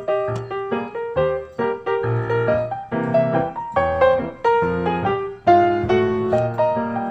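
Background piano music: a steady run of struck notes, several a second.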